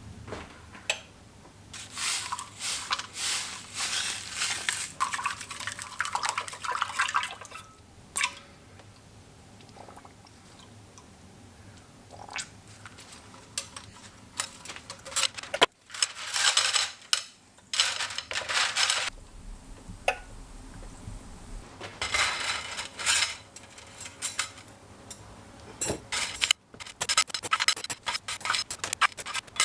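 Rapid rubbing and scraping strokes in bursts of several seconds, the hand work of cleaning or filing parts, with abrupt breaks where the sound cuts off.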